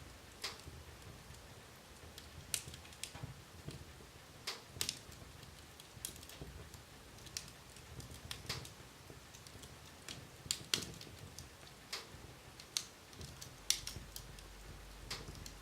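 Wood fire burning in a fireplace, crackling with sharp, irregular pops and snaps over a faint steady low background.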